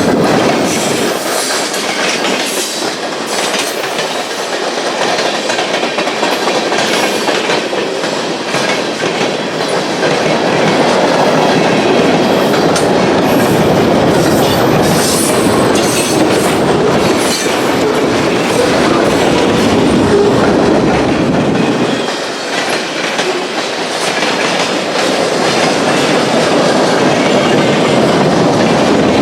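Freight cars of a mixed freight train rolling past close by, steel wheels clacking over rail joints in a steady loud rumble, with a little wheel squeal.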